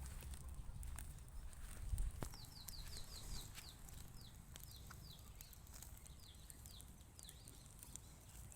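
A small bird calling a quick series of short, high, downward-slurred chirps, over scattered sharp clicks and a low rumble.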